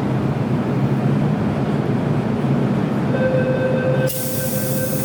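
MTR M-Train metro train running with a steady low rumble. About three seconds in a steady whine joins it, and about a second later a sudden loud hiss sets in.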